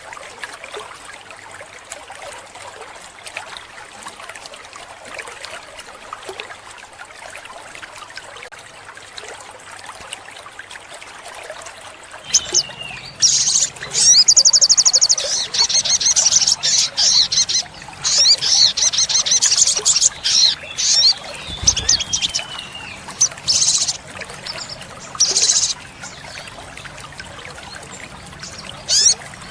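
Olive-backed sunbird singing: fast, high-pitched trills and sharp chirps in repeated bursts, starting a little before halfway and stopping near the end, over a steady background hiss.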